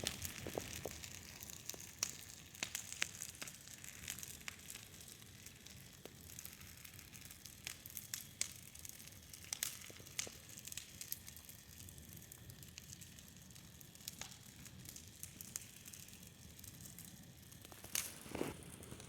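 Bonfire crackling, with scattered sharp pops and snaps over a steady hiss, and a louder crunch near the end.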